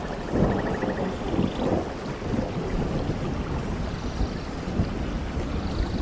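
Heavy rain falling steadily with thunder rumbling low underneath, swelling about half a second in and again a few times after.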